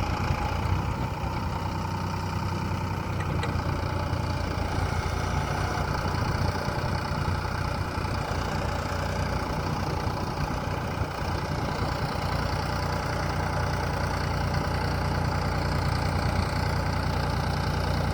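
Sonalika DI 35 RX tractor's diesel engine running steadily.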